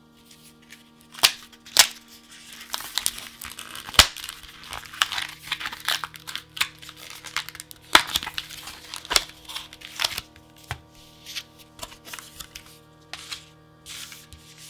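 Plastic packaging of a pack of card sleeves being torn open and crinkled by hand, an irregular crackle broken by sharp snaps and clicks, the loudest about four and eight seconds in.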